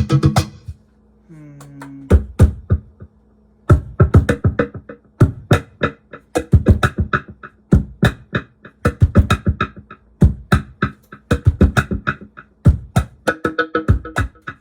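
Cajon struck by hand in quick rhythmic patterns, the hits run through a Digitech BP355 multi-effects pedal preset. A short low electronic tone steps downward about a second in, over a faint steady hum.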